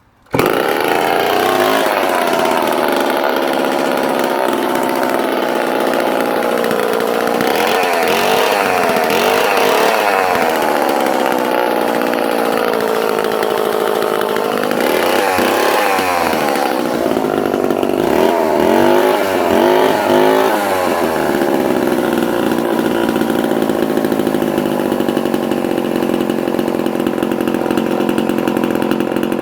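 Homelite C51 vintage 77cc two-stroke chainsaw engine, set with a bit of choke, coming in suddenly and running, revved up and down several times, then settling to a steady idle.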